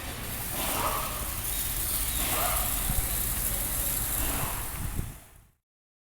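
Car wash equipment running with a steady hiss over a low rumble, fading out about five and a half seconds in.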